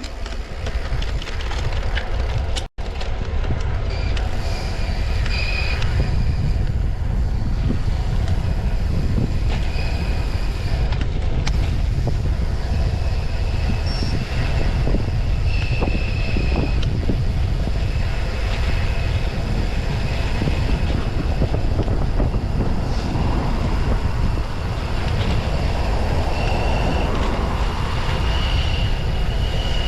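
Wind rushing over a bike-mounted action camera's microphone while riding a road bicycle, a steady low rumble with faint thin high tones now and then.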